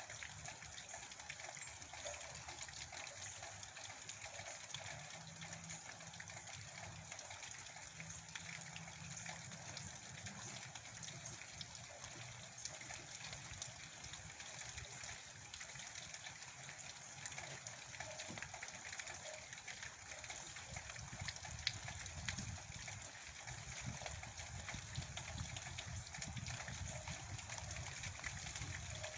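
Steady rain falling, with water running and pouring.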